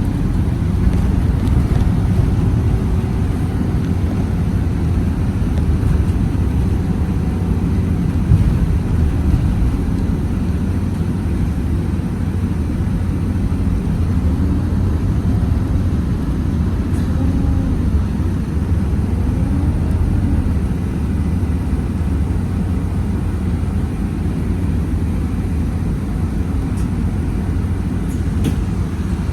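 Scania Citywide CNG city bus under way, its gas engine giving a steady low rumble with road noise. The engine note rises and falls in pitch a few times around the middle.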